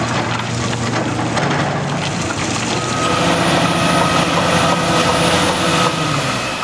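Heavy construction machinery engine running steadily, with a steady high whine joining about three seconds in.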